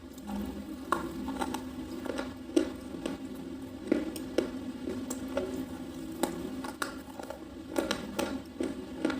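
Slate pencil being chewed, crunching and crackling in irregular sharp snaps, over a steady low hum.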